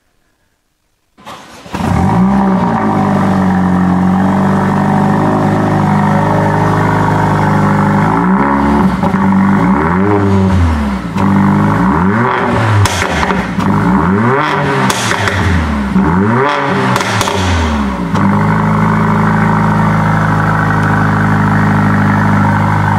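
Mercedes-AMG CLA45's 2.0-litre turbocharged four-cylinder engine starting with a quick flare of revs, settling to a steady idle, then revved in a series of about six or seven short throttle blips before dropping back to idle, heard from behind at the exhaust.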